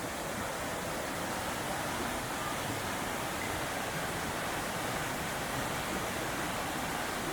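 Steady rush of water from a small jungle waterfall and its stream, an even unbroken noise.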